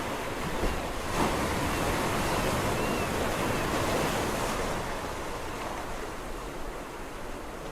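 Sea waves breaking and washing on a shore: a wave swells up about a second in, stays loud for a few seconds, then ebbs and quietens.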